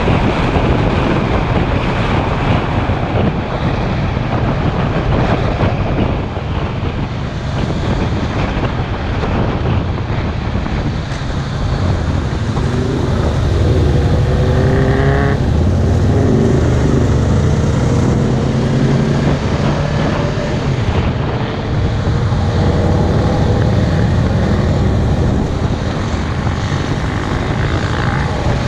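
Sport motorcycle riding at speed, the engine running under heavy wind rush on the microphone; the engine note rises in pitch a few times around the middle.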